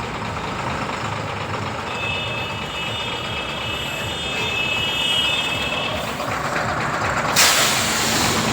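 Truck engine running steadily, with a thin high whine for a few seconds in the middle and a sudden loud hiss about seven seconds in.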